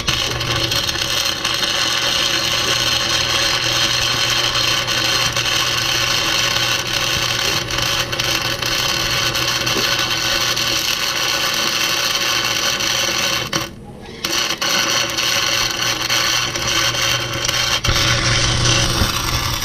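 Arc welding on the spider gears of a rear differential to lock it: a steady crackling hiss over a low electrical hum. The arc breaks off for about half a second some 14 seconds in, then starts again.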